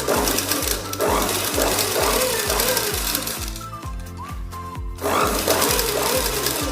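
Sewing machine running as it stitches, easing off briefly around the middle and starting up again, over background music with a steady beat.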